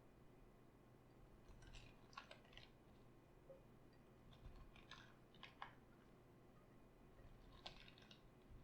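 Faint crisp crunching of raw cabbage being worked by hand, in three short clusters of crackles.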